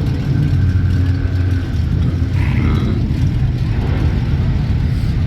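A motor vehicle's engine running loudly with a deep, steady rumble.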